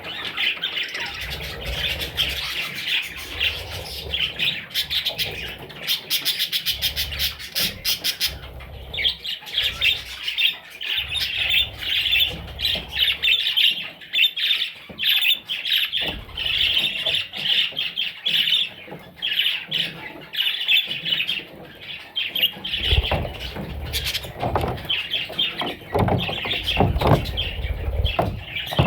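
Parrot chicks chirping and squawking in a continuous, dense stream of rapid high calls. There are a few low bumps near the end.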